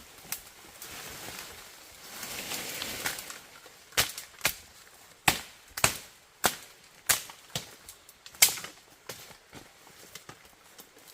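Chopping: a run of about nine sharp strikes, roughly two a second, after a stretch of rustling.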